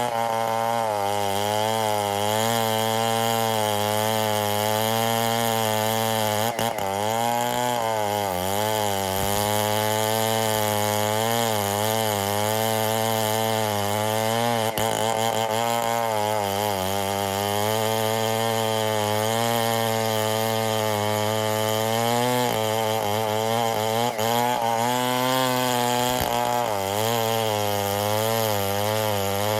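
Stihl 070 two-stroke chainsaw running steadily under load, its pitch sagging and recovering several times as it cuts ironwood.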